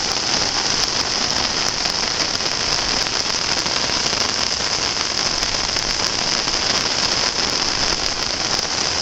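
Heavy rain pouring down, a steady even hiss of rain falling on surfaces.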